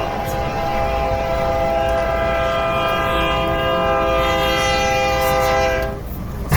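Locomotive air horn held in one long blast, several notes sounding together as a chord, over the low rumble of the train; the horn cuts off about six seconds in.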